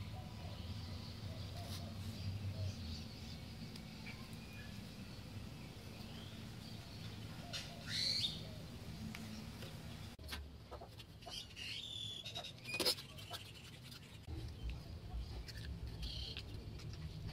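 Quiet background with a steady low hum and a few short bird chirps. A run of sharp clicks comes a little past the middle, from hands handling a small metal part.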